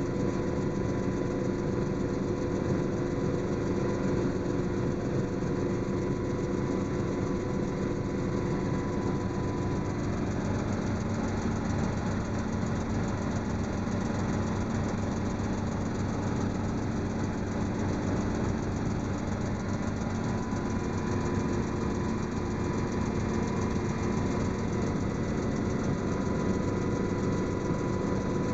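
Helicopter in flight, heard from aboard: a steady drone of engine and rotor noise with several constant tones, holding an even level throughout.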